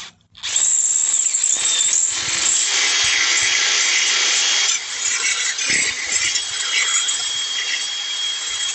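Power drill boring into metal: a steady high-pitched grinding run with a thin whine in it, easing slightly about halfway, as a hole is enlarged for a brake mount.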